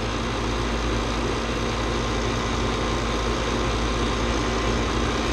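Refrigeration vacuum pump running steadily, evacuating a newly installed line set and evaporator coil.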